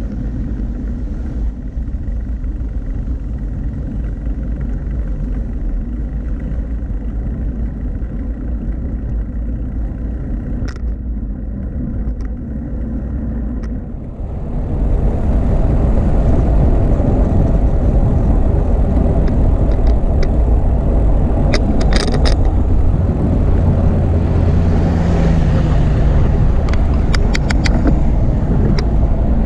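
Steady rumble of wind on the camera's microphone while cycling, mixed with road traffic; it gets louder and brighter about halfway through, with a few short clicks near the end.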